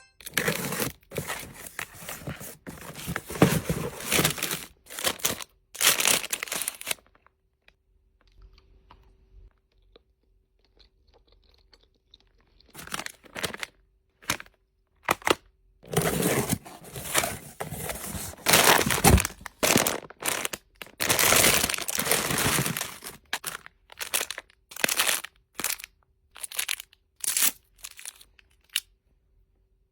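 Packaging being handled, crinkled and torn open in irregular bursts of crackling and tearing, with a quiet pause of a few seconds between two busy stretches.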